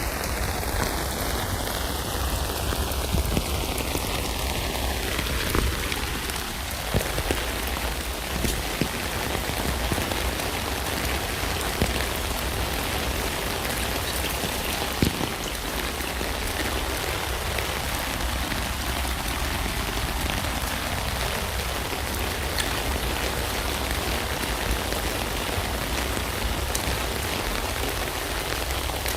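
Steady rain falling on a tent: a dense, even hiss with many individual drops hitting sharply throughout.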